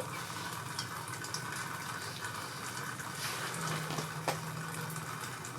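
Steady faint hiss with a low hum, and a couple of faint light clicks about three and four seconds in as engine parts are handled.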